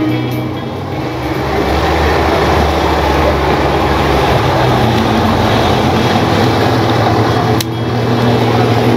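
Speedboat engine running steadily under a loud rush of wind and water, with a sharp click about three-quarters of the way through.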